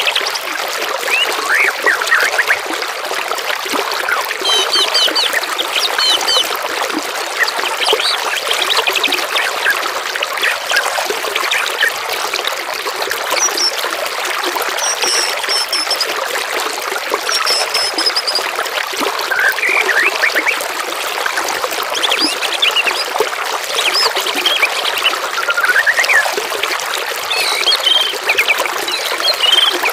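Steady trickling water, with songbirds chirping and singing over it in short, high phrases that come and go throughout.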